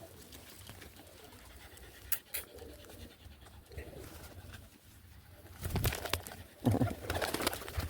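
Young pigeons cooing softly close to the microphone, with a couple of sharp clicks, then louder scuffing and rustling on the microphone from about two-thirds in.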